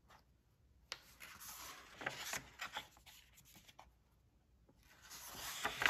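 Paper rustling as a picture book's pages are handled and turned, in two bouts with a sharp tap at the start.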